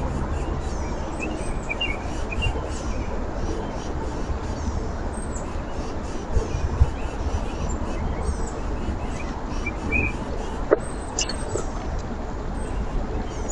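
Small songbirds chirping and calling in short, high notes over a steady background rush, with a single sharp click near the end.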